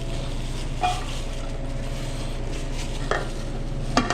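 Restaurant kitchen line sounds: a steady hum from the kitchen equipment, with a few short clinks and knocks of utensils and dishes about a second in, near three seconds and near the end.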